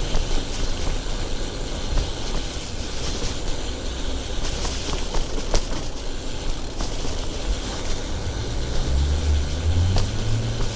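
Steady low rumble of wind and road noise on a moving bicycle's camera microphone in city traffic, with a few small clicks. A deep engine hum from a nearby vehicle builds near the end.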